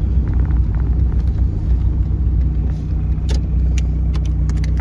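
Car engine idling steadily with a low rumble. Several sharp clicks come in the second half.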